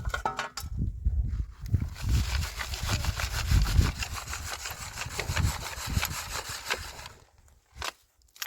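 Rhythmic gritty scraping and rustling of dry soil being worked by hand, with dull thuds underneath. It stops about seven seconds in, followed by two short knocks.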